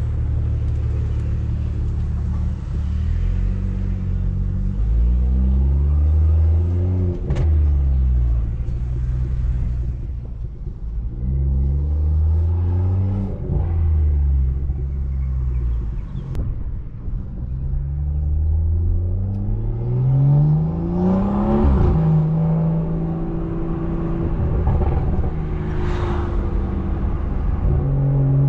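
Straight-piped exhaust of a big-turbo BMW 340i's turbocharged 3.0-litre inline-six, heard from the driver's seat. It revs up three times, its note climbing and then dropping back each time, then runs at a steadier pitch near the end.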